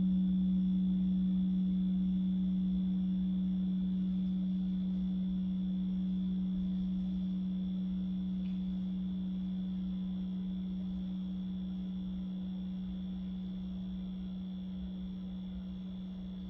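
A singing bowl's low, pure tone ringing on and slowly fading away.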